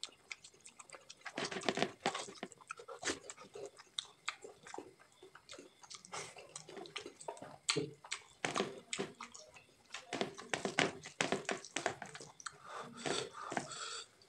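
Close-up chewing of a mouthful of rice and pumpkin curry, with short, irregular mouth clicks and smacks throughout.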